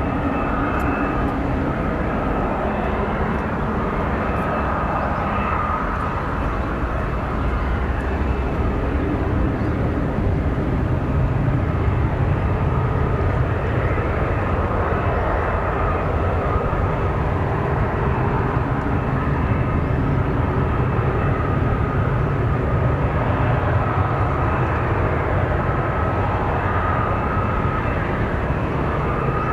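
Jet engines of an Airbus A319 airliner running steadily, a thin whine over a broad rush, with the low rumble growing stronger about ten seconds in.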